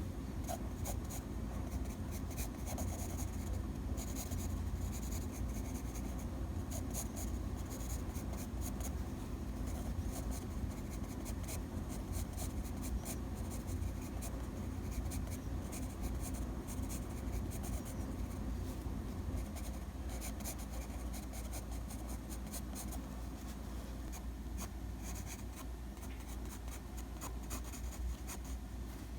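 Pencil scratching across paper in quick, repeated sketching strokes, over a steady low hum.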